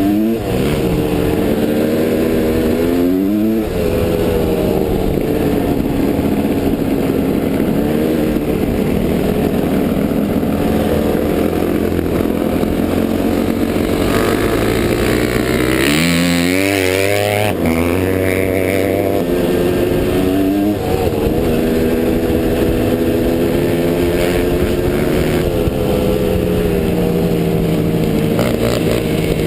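Off-road motorcycle engine running hard, its pitch rising and falling with throttle and gear changes. The revs drop and climb sharply near the start, about three seconds in, and again around the middle.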